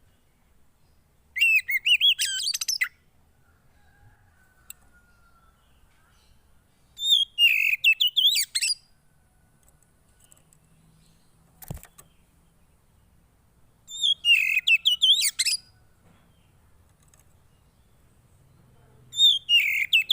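Songbird of the kind Indonesian keepers call 'poci' singing four short phrases of quick, high twittering notes that sweep up and down, each about a second and a half long, with pauses of about four seconds between. A single sharp click falls near the middle.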